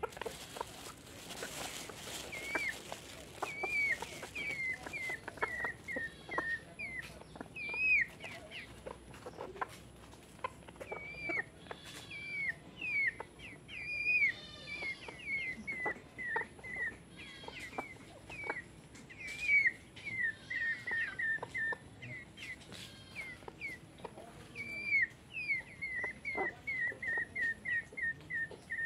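Bird calls: short, repeated chirping notes that come in a quick run of about three a second near the end, with scattered faint taps.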